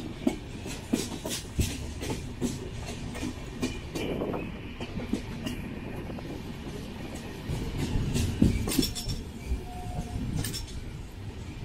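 Passenger train running along the track: a steady rumble with wheels clattering and knocking over rail joints.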